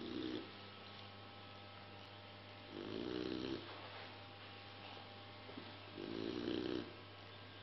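Three-month-old Beauceron puppy snoring in its sleep: short snores about every three seconds, one fading right at the start, then two more about 3 and 6 seconds in. A faint steady hum runs underneath.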